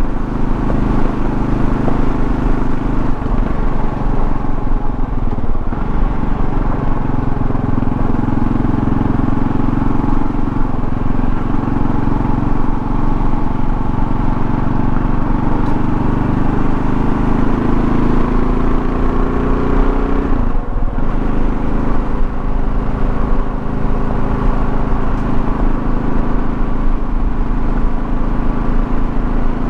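A 2024 Kawasaki KLR650's single-cylinder engine running under way, with road and wind noise. The engine note climbs steadily for several seconds, breaks off for a moment about two-thirds of the way through, and picks up again at a lower pitch.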